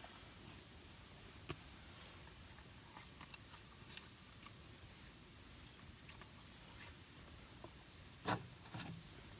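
Wood campfire crackling faintly, with sparse irregular pops and one louder pop or snap about eight seconds in.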